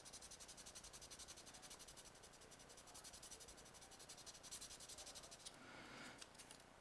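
Faint, quick back-and-forth strokes of 400-grit sandpaper rubbing on a glued plastic model kit part, sanding away excess glue at the seam. The strokes stop briefly near the end, then a few more follow.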